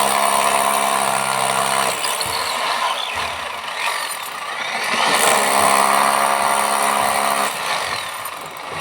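Electric hammer drill running with a steady buzzing hammer action. It eases off about two seconds in and comes back to full strength about five seconds in.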